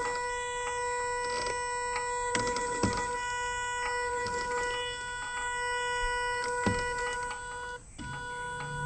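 GMADE Sawback RC rock crawler's electric motor and drivetrain whining at one steady pitch while it crawls, with scattered clicks and knocks from the chassis and tyres on the terrain. The whine cuts out for a moment near the end, then comes back.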